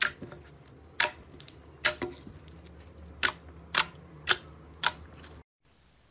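Slime being pressed and poked, giving crisp clicking pops of trapped air: seven sharp pops about half a second to a second apart. The sound cuts off abruptly near the end.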